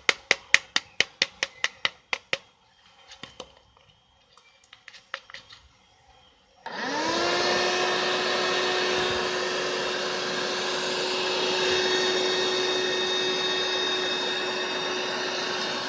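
A quick series of sharp taps, then about seven seconds in a Zoook Moto 69 12-volt handheld car vacuum cleaner is switched on: its motor whines up quickly and settles into a steady, loud run.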